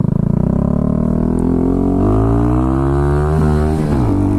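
Kawasaki Z125's small single-cylinder engine through a homemade custom exhaust, pulsing at low revs and then rising in pitch as it accelerates, with a quick drop in revs near the end before it settles again.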